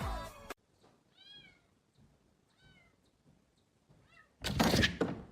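A cat meowing softly three times, each a short call that rises and falls in pitch, followed near the end by a loud thump.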